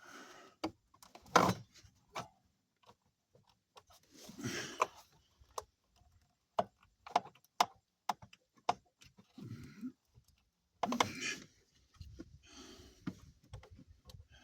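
Scattered clicks and knocks with short rustles and scrapes: hands and tools working on a truck while a part is unhooked. The loudest knock comes about a second and a half in.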